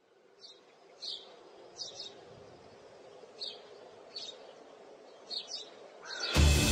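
Birds chirping in short, high calls about once a second over a faint steady outdoor background. Loud music comes in near the end.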